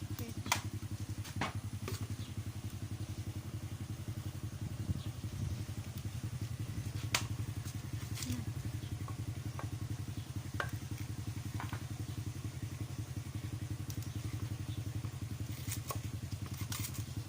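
A small engine running steadily, its low hum pulsing fast and evenly, with a few sharp clicks or knocks scattered over it.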